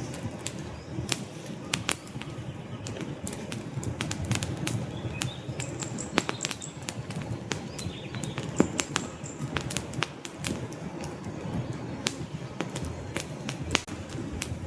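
Wood fire crackling: irregular sharp pops and snaps over a steady low rush of burning logs, with a faint high whistle now and then.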